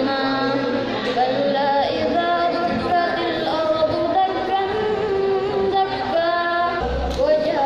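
A young student's solo voice chanting Quranic recitation in a melodic tilawah style, with long held notes and ornamented turns.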